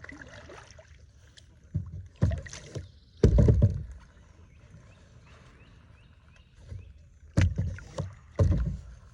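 Water splashes and hollow knocks on a fishing kayak, in five short heavy bursts: two close together about two seconds in, the loudest a second later, and two more near the end.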